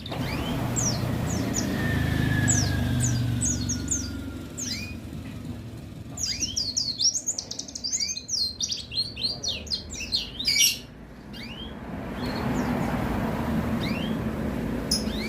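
White-eye (pleci) singing in quick, high chirps and short trills, most dense in the middle, over road-traffic rumble that swells twice as vehicles pass.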